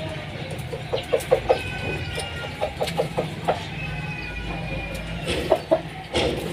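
Birds calling: runs of short, low clucking notes several to a second, with faint thin, higher chirps over them.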